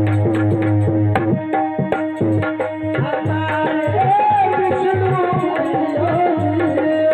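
Devotional aarti music with tabla playing a steady rhythm under a held drone note. About three seconds in, a wavering melody comes in over it.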